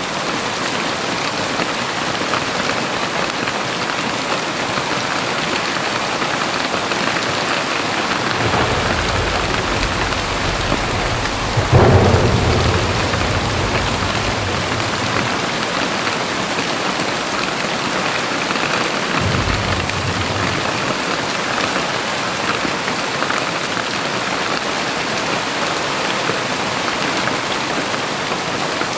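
Very heavy rain falling steadily, with low rumbles of thunder and one sudden loud thunderclap about twelve seconds in that fades over a couple of seconds.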